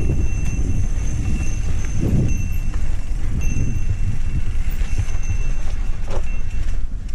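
Mountain bike rolling over a dirt trail: steady rumble of wind on the microphone, with the tyres and bike rattling over the ground. A thin high whine comes and goes.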